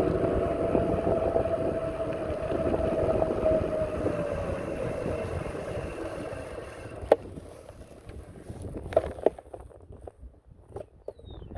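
A steady motor hum with rumbling noise underneath, carrying two held tones, that fades away over about seven seconds. It is followed by a few sharp clicks and knocks.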